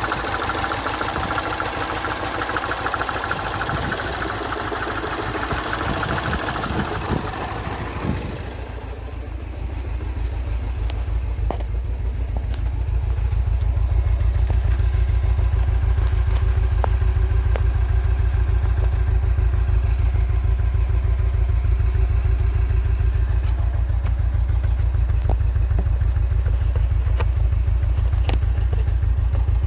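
Mini Cooper engine running steadily. About eight seconds in, the sound changes to a louder, steady low rumble, with a few faint clicks over it.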